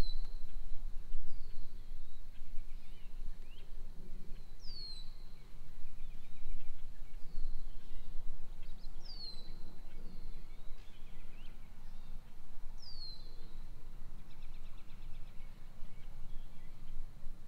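Birdsong: a bird repeats a short high whistle that slides downward every few seconds, with fainter chirps from other birds over a steady low background noise.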